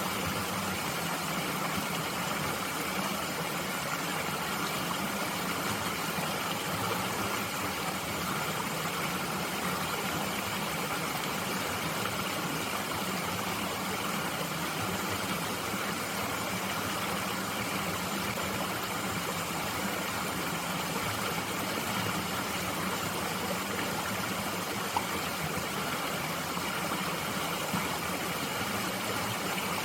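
Mountain stream flowing steadily, an even rush of water with no change in level.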